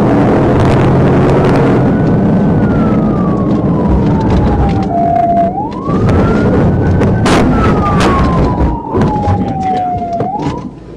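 Police car siren on its slow wail, rising and falling twice, over loud engine and road noise that eases after about six seconds. A single sharp bang cuts through about seven seconds in.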